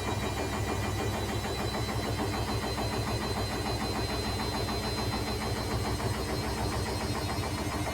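Beko Extreme washing machine spinning with an unbalanced load, the machine shaking and rattling hard in a steady, fast, dense rumble with a faint high whine over it.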